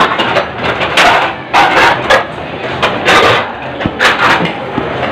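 Close-up eating sounds: a man chewing a mouthful of pancit noodles and rice eaten by hand, with wet mouth noises in irregular bursts about once a second.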